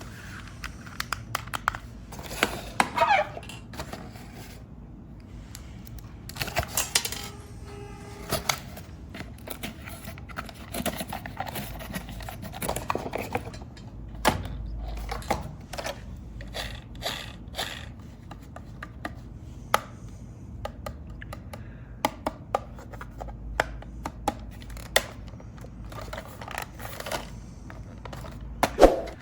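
Hands handling toy packaging and hard plastic parts: irregular clicks and knocks, with scraping and tearing rustles now and then.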